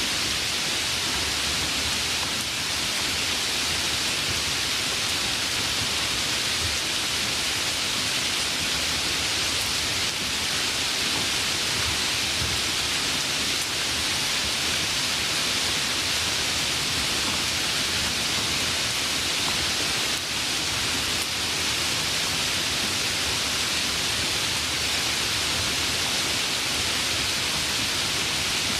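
Steady heavy rain, an even unbroken hiss with no thunder and no change in level.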